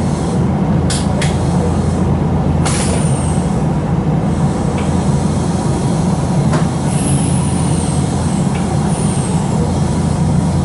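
Nankai 2300 series electric train braking to a stop at a station, heard inside the car: a steady low rumble of the running gear with a few sharp clicks and a couple of faint high falling whines.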